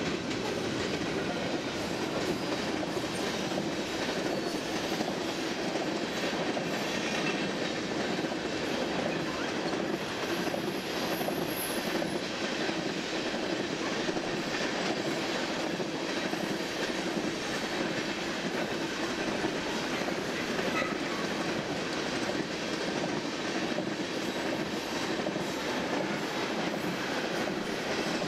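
Freight cars of a manifest train (coil cars, then tank cars) rolling steadily past: a continuous noise of steel wheels on rail, with repeated clicks as the wheels cross rail joints.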